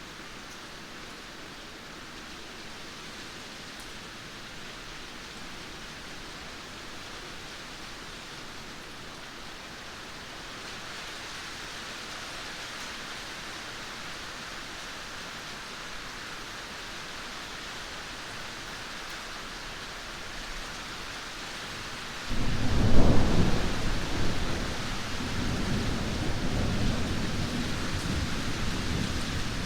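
Steady rain falling, then about three quarters of the way through a sudden loud thunderclap breaks in and rolls on as a deep rumble.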